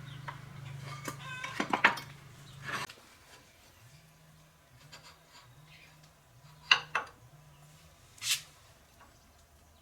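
A few sharp clinks and knocks of hard objects being handled, the loudest a quick pair past the middle and one more soon after. A low steady hum stops about three seconds in.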